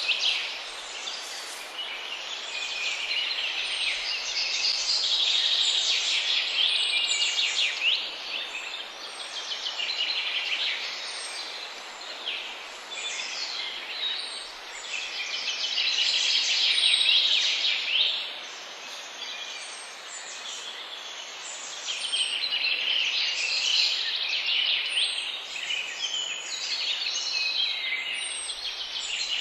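Many songbirds singing and calling at once, a dense mix of overlapping chirps and trills that swells and fades, over a steady background hiss.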